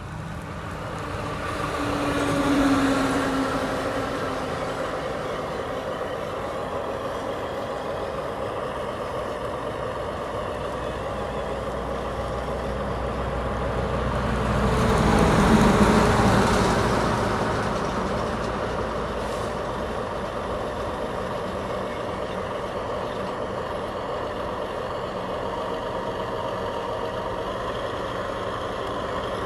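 Remote-control construction trucks running steadily: a bulldozer and dump trucks working soil. The sound swells louder twice, about two to three seconds in and again around fifteen seconds in, the second swell with a hiss.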